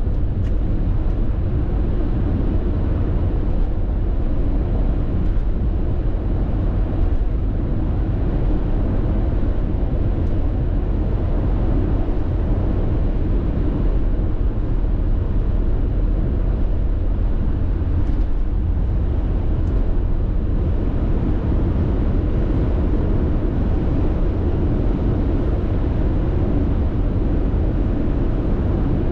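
Steady road noise of a car cruising at constant speed on an expressway: an even, low-pitched drone of tyres and engine that holds level throughout.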